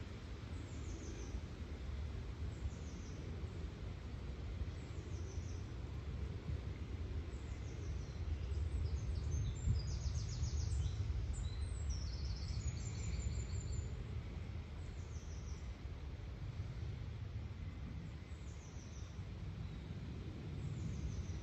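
Woodland birds singing: one bird repeats a short, high, falling note every second or two, and another gives quick trills about halfway through, over a steady low rumble.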